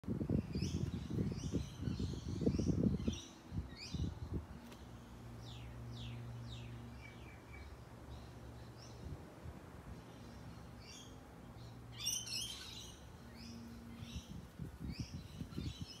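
Small birds chirping and calling over and over, with short downward-sweeping notes and a denser burst of chatter about twelve seconds in. Low rumbling noise on the microphone is loudest in the first three seconds and returns near the end, and a faint steady low hum runs through the middle.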